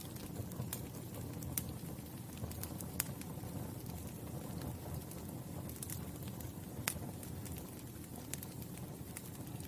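Wood fire crackling: a steady low rumble of burning with sharp, irregular pops and snaps scattered through it, one to a few every second.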